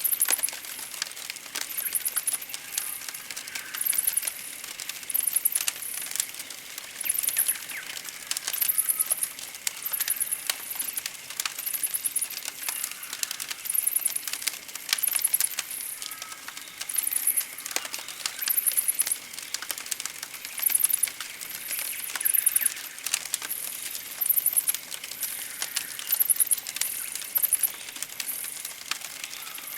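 Campfire crackling and popping in irregular sharp clicks. Over it, a very high trilled chirp repeats about once a second.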